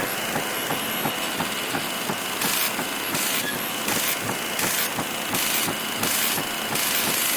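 Television with a poor signal: loud static hiss full of crackle, with a high hiss pulsing on and off about twice a second from about two and a half seconds in.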